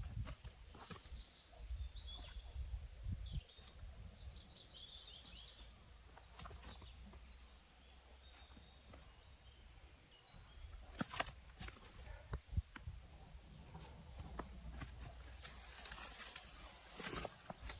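Small birds chirping in short, quick phrases over a low outdoor rumble. A few sharp knocks come about eleven seconds in and again near the end, and these are the loudest sounds.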